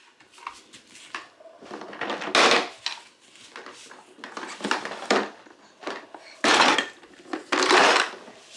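Wooden toy pieces clattering and knocking as they are handled, in several short bursts.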